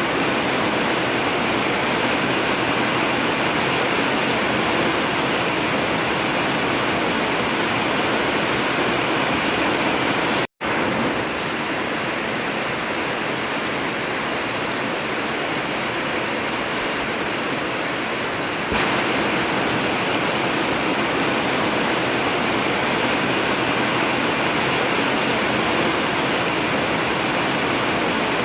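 Heavy rain drumming steadily on an old tin (zinc) metal roof, an even hiss. The sound cuts out for an instant about ten seconds in, and its tone changes slightly near the end, like a join in a looped recording.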